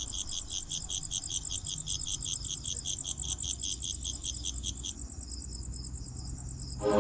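Crickets chirping at night: a rapid, even run of pulsed chirps that stops about five seconds in, over a steady high trill from other insects. Music comes in right at the end.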